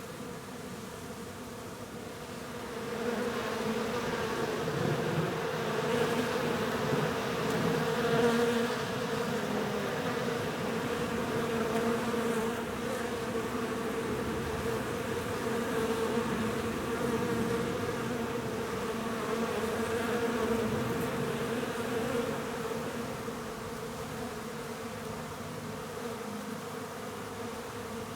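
Honeybees buzzing in flight around a beehive, a steady drone that swells about three seconds in and eases off near the end.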